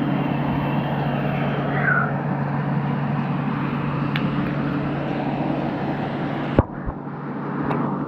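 A steady mechanical hum with a constant low tone under a noisy wash. About six and a half seconds in, a single sharp click, after which the sound briefly dips.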